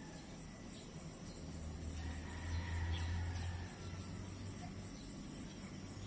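Insect chorus, likely crickets, giving a steady high-pitched trill, over a low rumble that swells about two seconds in and eases off before the end.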